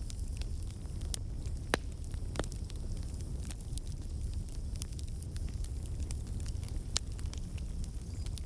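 Wood campfire burning: a steady low rumble of the flames with irregular crackles and pops from the burning logs, a few louder snaps among many small ticks.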